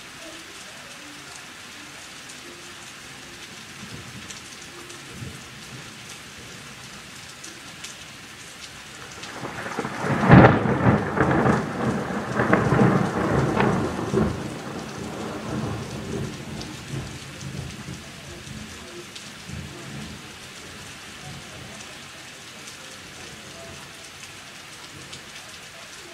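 Steady rain falling during a thunderstorm, with a thunderclap about ten seconds in: a sudden sharp crack, then rumbling that rolls on in waves for several seconds and dies away.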